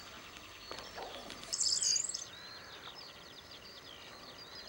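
Small birds chirping and singing, many short high chirps, with one louder burst of song about a second and a half in.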